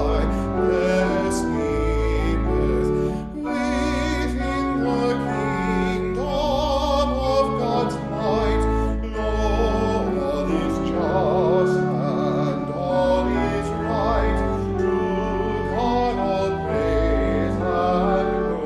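Church music: a voice singing with a wide vibrato over sustained keyboard chords, likely an organ.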